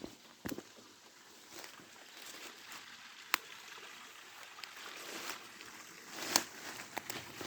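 Water of a small stream trickling, with a few sharp clicks or splashes breaking through; the loudest come about three seconds in and again just past six seconds.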